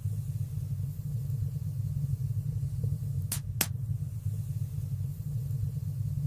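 Wood fire burning in a stone fireplace: a steady low rumble of flames, with two sharp crackling pops in quick succession a little past three seconds in.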